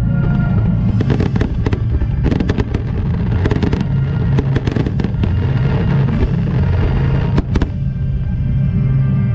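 Aerial fireworks shells bursting with sharp bangs and clusters of crackles, over steady accompanying music.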